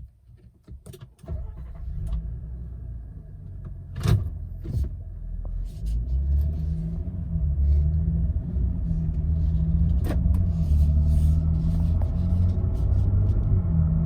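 2022 Nissan Frontier's 3.8-litre V6 running through its exhaust, a low steady rumble that builds louder over the first several seconds and then holds. A few sharp clicks and knocks sound along with it.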